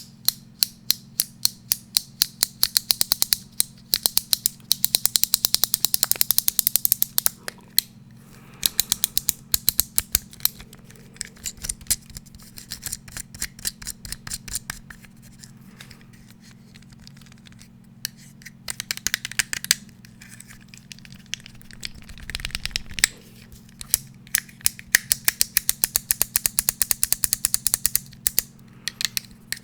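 Fast ASMR tapping on an unidentified hard object: runs of sharp, crisp clicks several a second, broken by short pauses.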